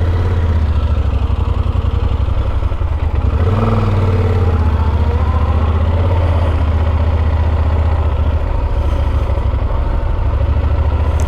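Motorcycle engine running steadily at low speed, with a short change in engine note a few seconds in.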